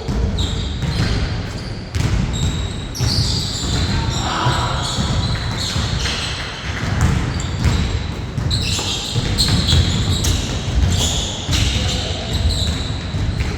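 Basketball bouncing on the court during a game, in irregular, sharp bounces, with short high-pitched sounds in between.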